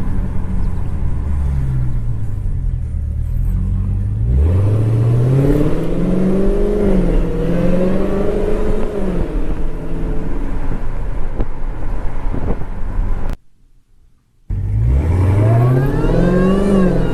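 Supercharged 6.2-litre HEMI V8 of a Dodge Challenger Hellcat, fitted with a Bwoody cold air intake, pulling through the revs in several runs, its note rising and falling, with supercharger whine climbing with the revs. The sound cuts out abruptly for about a second late on, then another pull rises.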